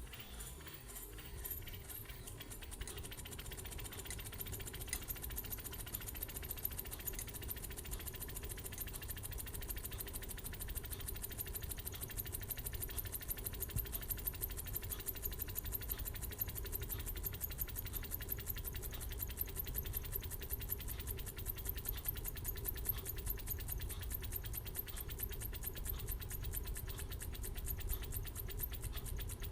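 Homemade Stirling engine, built from scrap parts, running with a fast, even mechanical clatter that grows a little louder over the first few seconds.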